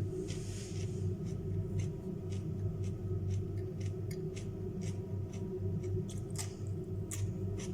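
Crisp crunching of raw carrot and cucumber being chewed, a short crack about twice a second, over a steady low hum.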